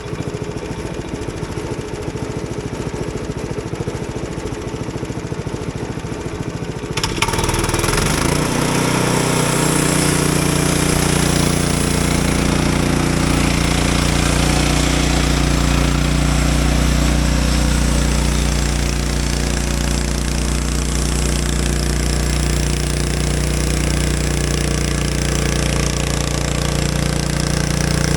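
Frontier OS23 portable bandsaw mill's engine running. About seven seconds in, the band blade enters the pine log and saws steadily through it on a skim cut. The loud, even cutting noise sits over the engine, whose hum settles to a steadier note under the load.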